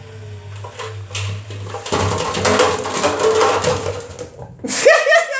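Washing machine ending a spin cycle: the motor's low hum and a slowly falling whine stop about two seconds in, followed by a few seconds of clattering and rattling.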